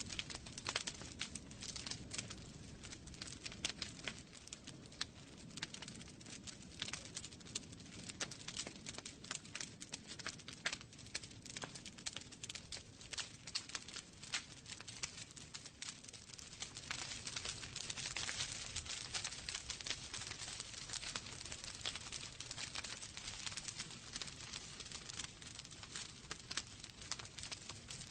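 Wood fire in a fireplace crackling, with many small irregular pops and snaps over a steady hiss and low rumble of burning logs; the hiss swells for a few seconds a little past the middle.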